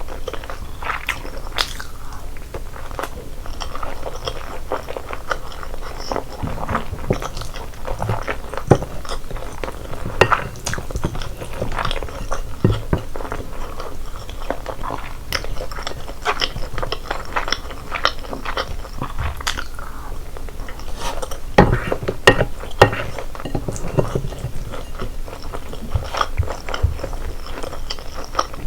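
Close-miked eating: a person chewing and biting food, with many short sharp crunches and clicks at an uneven pace.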